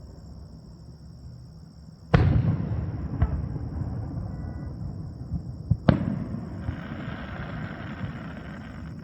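Aerial fireworks shells bursting: a loud boom about two seconds in with a long rolling rumble after it, a smaller crack a second later, then another sharp bang near six seconds followed by a crackling shower.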